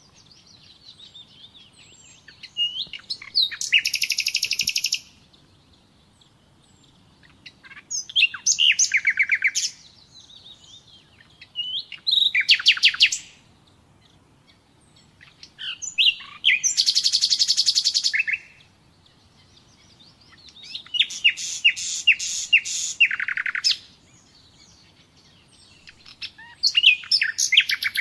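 Nightingale singing: about six loud phrases of rapid repeated notes and trills, each a second or two long, coming every four or five seconds with short pauses between, and faint twittering in the gaps.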